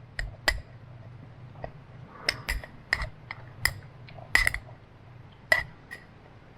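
Cutlery clinking against a dish: about a dozen sharp, irregular clinks with a brief ring.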